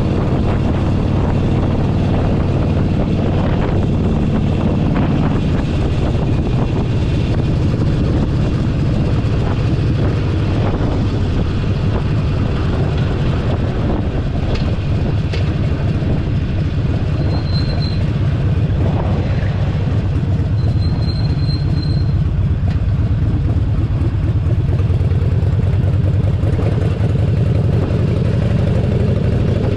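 Harley-Davidson Sportster 1200 V-twin engine running steadily under way, with wind rushing across the microphone. Two brief high-pitched tones sound about halfway through.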